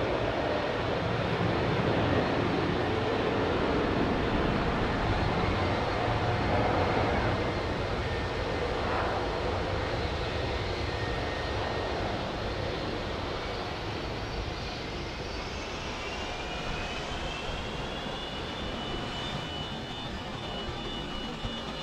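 Jet airliner engines roaring, loudest at first and then slowly fading away. In the later part a thin whine rises in pitch and then holds steady.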